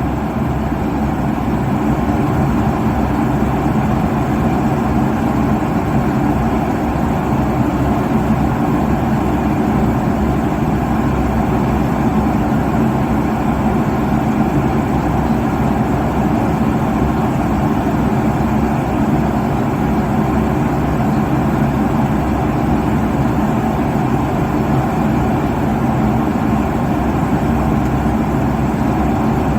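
Steady airliner cabin noise at cruise altitude: the even rushing hum of the jet engines and airflow, heaviest in the low end.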